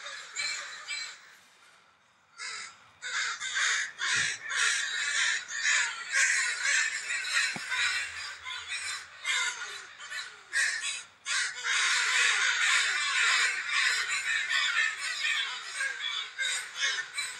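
Crows cawing over and over in dense, overlapping runs, with a brief lull about two seconds in. These are typical of crows alarm-calling at a falcon that has caught a young crow.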